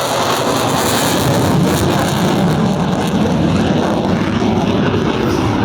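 Loud, steady jet noise of an F-35A Lightning II's Pratt & Whitney F135 turbofan engine with the fighter in flight.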